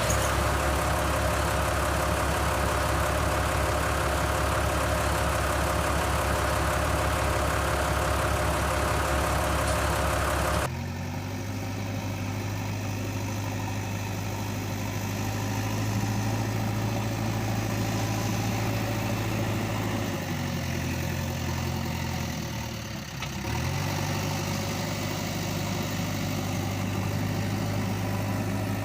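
Heavy machine's diesel engine running steadily at idle. The sound changes abruptly about a third of the way in, then settles into a lower steady hum. About two-thirds of the way in the pitch sags for a few seconds and comes back up.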